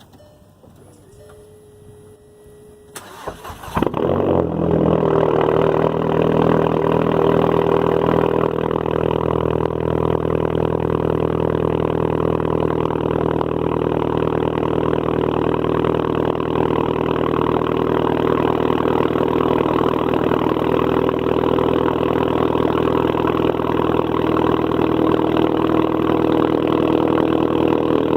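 Cold start of a straight-piped Volkswagen 2.0 TSI turbocharged four-cylinder: the starter cranks about three seconds in, the engine catches at once and runs loud through the open exhaust, then holds a steady cold idle.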